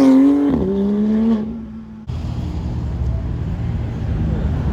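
A car engine accelerates hard, its pitch peaking and then dropping back about half a second in, and holds briefly before fading. An abrupt change about two seconds in brings a steady, low engine rumble.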